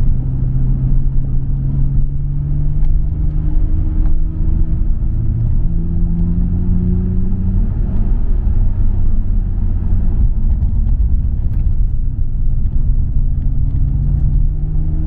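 Nissan Skyline R34 GT-R's RB26 twin-turbo straight-six running through a MINES aftermarket exhaust under load, a deep steady rumble whose pitch climbs slowly. The revs drop about halfway, then start climbing again near the end.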